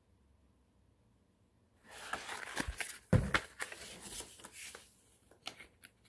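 Paper rustling and light knocks from a picture book's pages being turned and handled, starting about two seconds in, loudest around the middle, then a few soft clicks.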